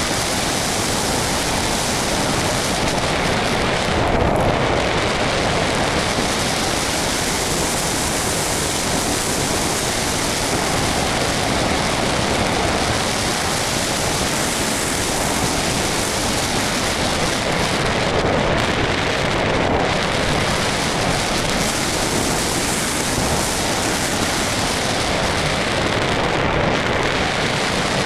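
Steady, loud rush of air over a camera mounted on a flying RC model plane, mixed with the plane's motor noise; no distinct tones or clicks.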